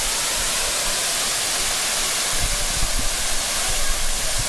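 Waterfall rushing: a steady hiss of falling water, with a few low thumps in the second half.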